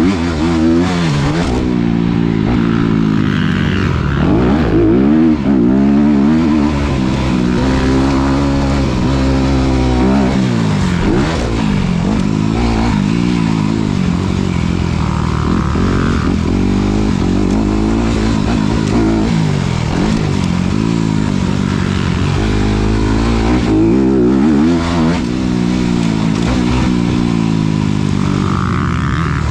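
Honda CRF250RX dirt bike's single-cylinder four-stroke engine being ridden hard, its pitch climbing and dropping again and again as the rider opens and closes the throttle and shifts gears.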